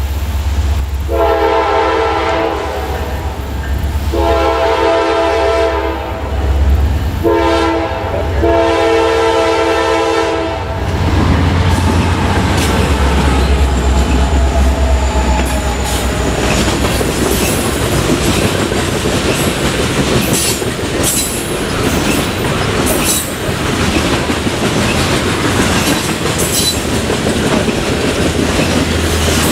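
Norfolk Southern diesel freight train blowing its chord air horn in the grade-crossing pattern: long, long, short, long. Its locomotives then pass with a heavy engine rumble, followed by the wheels clacking over rail joints and squealing now and then.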